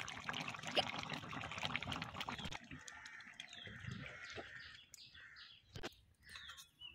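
Small birds chirping, over a steady hiss that cuts off suddenly under three seconds in, with a single sharp click near the end.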